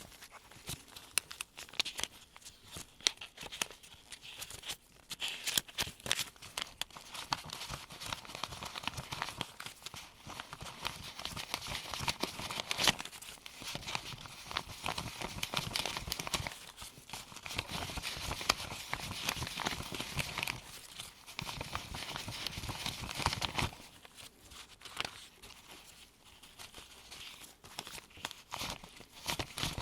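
US one-dollar bills counted by gloved hands and laid one by one onto a pile: a quick run of crisp paper flicks, snaps and rustles, busiest through the middle and sparser near the end.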